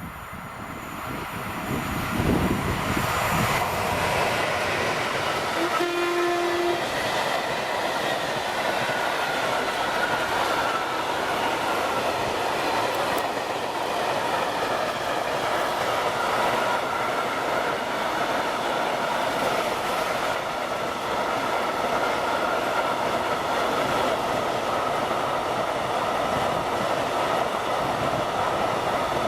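Train running past on the track, with steady rolling wheel noise building over the first two seconds and carrying on. About six seconds in, a short horn blast sounds for about a second.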